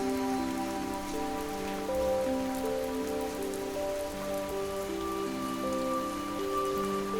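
Steady gentle rain mixed with soft, slow music: held notes that move from one pitch to the next every second or so.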